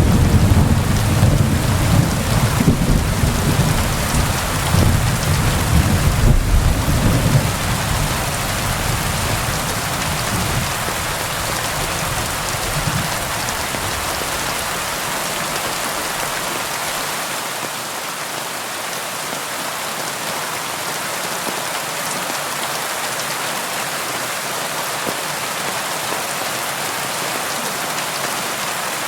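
Steady rain falling, with a long rolling rumble of thunder underneath it that dies away over the first fifteen seconds or so, leaving only the even hiss of the rain.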